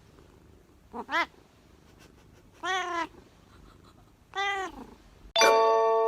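Domestic cat meowing: two short meows about a second in, then two longer meows. Near the end a loud chiming jingle starts suddenly and is the loudest sound.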